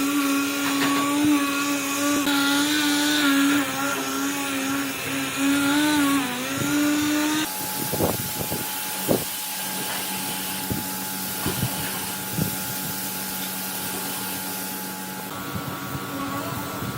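Electric power tool running in a workshop, its motor hum wavering in pitch as the load changes. About seven seconds in the sound changes abruptly to a steadier hum with scattered knocks and taps.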